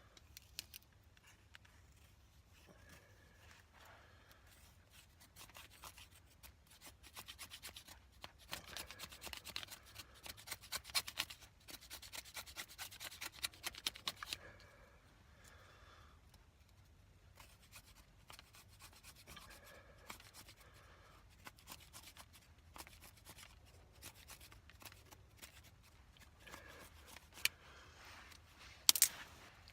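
Knife scraping and shaving a stick into fine tinder. A run of quick rasping strokes in the middle gives way to quieter scraping, with a couple of sharp clicks near the end.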